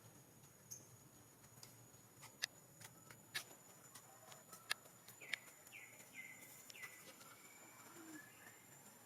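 Faint series of four short, falling chirps from a small animal, with a few sharp clicks before them, over quiet room tone.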